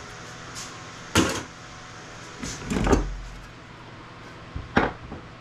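Scrap circuit boards being handled and set down: three separate knocks and clatters, about a second in, around three seconds in with a low thud, and near the end.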